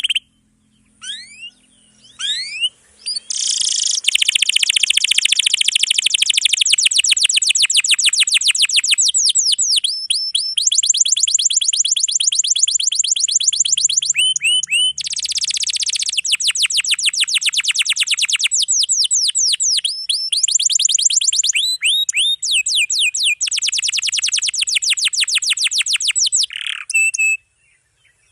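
Domestic canary singing long, rapid trills of repeated high notes, one roll after another with brief breaks, the fast 'roll panjang' song. It falls briefly silent near the start and again near the end.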